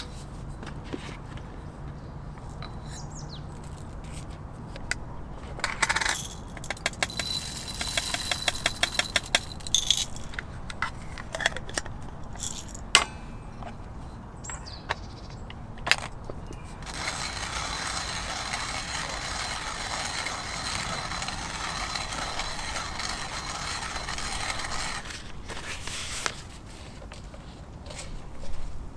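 Small metal items clinking and rattling, with a quick run of clicks for a few seconds, then a steady hiss lasting about eight seconds.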